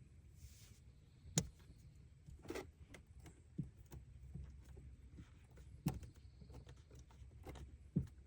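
Scattered sharp clicks and knocks over a faint low hum, about four of them a second or more apart: hand tools and parts being handled during engine work.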